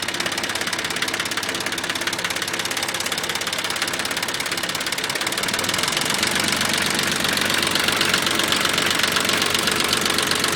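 1986 International tractor's diesel engine running at idle with a steady, rapid clatter, getting louder about six seconds in.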